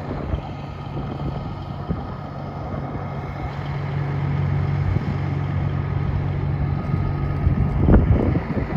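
Semi truck's diesel engine running steadily with a low hum, growing a little louder partway through, with a couple of thumps near the end.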